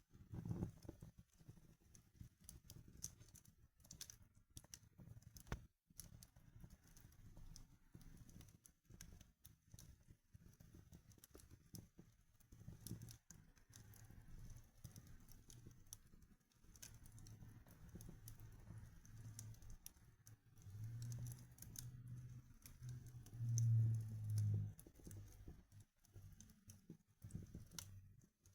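Real fire in a fireplace crackling quietly, with scattered sharp pops and clicks. A low rumble swells louder for a few seconds near the end.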